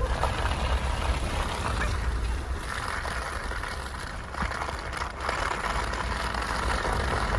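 Steady low rumble and road noise of a vehicle driving, with no sharp events.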